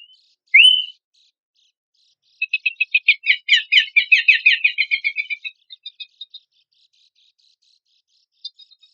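Pelanduk semak (Horsfield's babbler) song used as a lure: one short rising whistled note, then after a pause a rapid chattering run of notes lasting about three seconds that thins out and stops.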